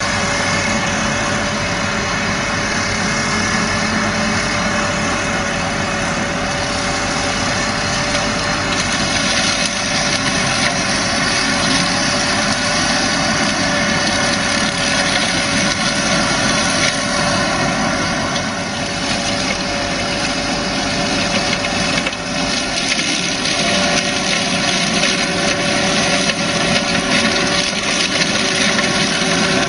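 Farm tractor engine running steadily, with a steady whining tone over the engine noise.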